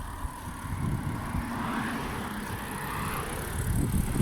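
Wind rushing over the microphone of a bicycle-mounted or handheld camera on a fast downhill descent, a rough, shifting low rumble. A faint road-traffic hiss swells and fades midway.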